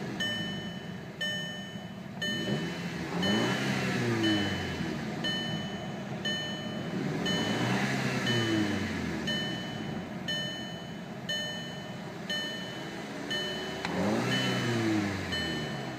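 2008 Audi TT's turbocharged 2.0-litre inline-four being revved three times, each rev rising and falling over a couple of seconds, with idle in between. A warning chime beeps about once a second throughout.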